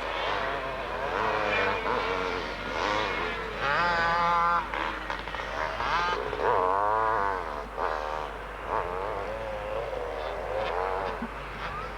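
Motocross motorcycle engines revving up and dropping back again and again as several bikes race past, their pitches overlapping.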